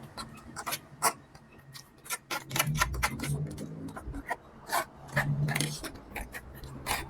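Close-miked eating sounds: instant noodles being chewed with many short, wet mouth clicks and smacks, and a couple of louder stretches of chewing.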